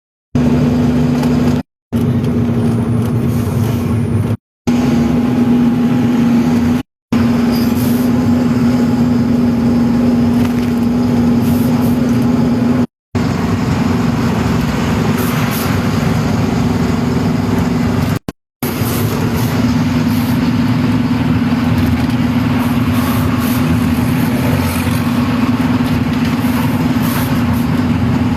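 Heavy truck's engine running at a steady speed with an even, loud hum, broken by several short gaps of silence.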